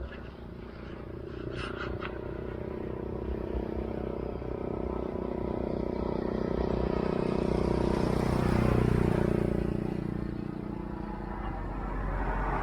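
A motor vehicle driving past: its engine hum grows louder, is loudest about nine seconds in, then fades away.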